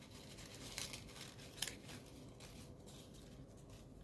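Faint rustling and crinkling of folded paper origami units being handled and slotted together, with a few short crisp paper clicks in the first half, the sharpest a little past one and a half seconds in.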